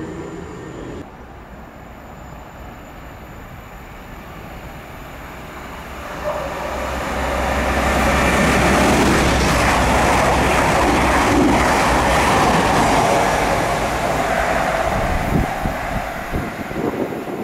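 Class 222 Meridian diesel multiple unit approaching and passing on the track. A rising rush of wheel and engine noise with a low hum holds loud for several seconds, then eases, with a few sharp clicks near the end.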